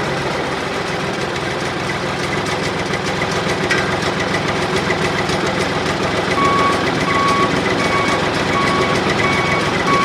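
Truck engine running steadily, with a reversing alarm beeping evenly about every 0.7 seconds from about six seconds in.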